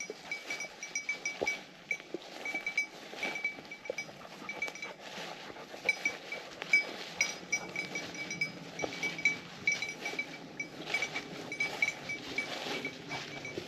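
A small bell on a bird dog's collar jingles in quick, irregular strikes as the dog moves through the field, over rustling and crunching footsteps through dry grass and brush.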